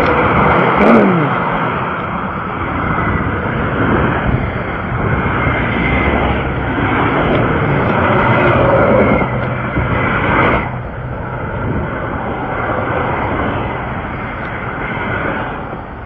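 Roar of road traffic going by, swelling and fading as vehicles pass, with a falling pitch about a second in as one goes past.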